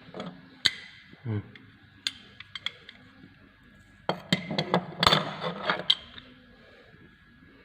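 Metal parts of a Suzuki Celerio's rear drum brake clicking and clinking as they are handled and fitted back into place. A few sharp clicks, then a busier run of clinks about four to six seconds in.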